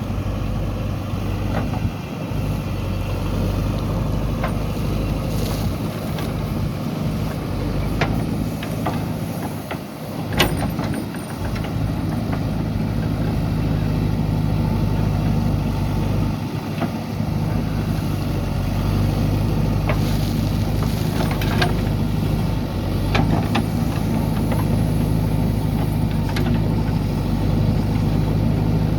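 JCB 3DX backhoe loader's diesel engine running steadily, with scattered sharp knocks and clanks from the machine working; the loudest knock comes about ten seconds in.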